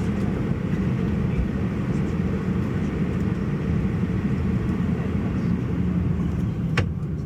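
Steady low rumble inside an Airbus A320's cabin, the engines and air system running. A single sharp click comes near the end.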